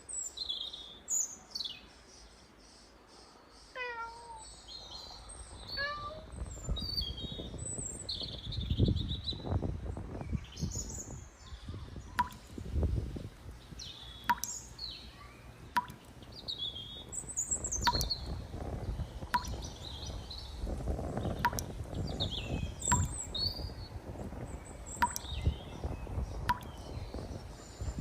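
Birds chirping and calling in short high notes, with a sharp click repeating about every second and a half through the second half, and stretches of low rumble.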